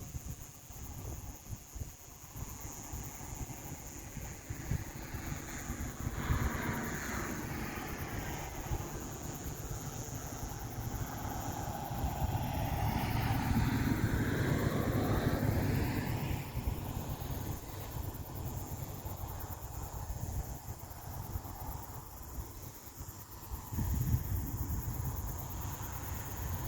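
A vehicle passes by on a nearby road, its noise building over several seconds, peaking about halfway through, then fading away. Low gusts of wind buffet the microphone near the end.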